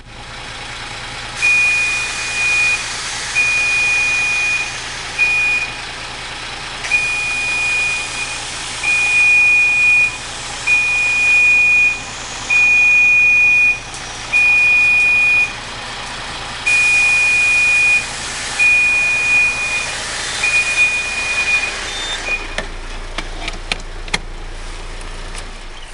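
Truck's electronic warning buzzer beeping in about a dozen uneven pulses over a steady hiss and a low engine hum; the beeping and the hiss stop about 22 seconds in.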